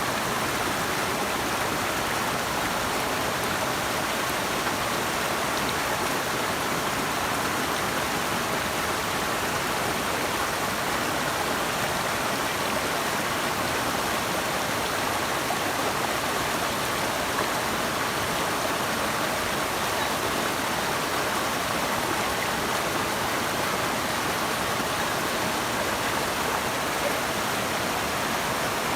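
Running water rushing steadily, a continuous even roar with no breaks.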